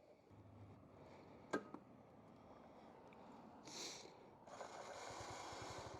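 Near silence: a faint background hiss, with one sharp click about a second and a half in and a short hiss near the middle. A faint low, even pulsing begins just before the end.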